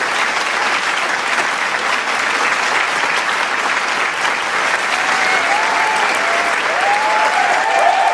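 Large crowd applauding, a dense, steady clapping, with scattered cheers and whoops from the crowd growing more frequent in the second half.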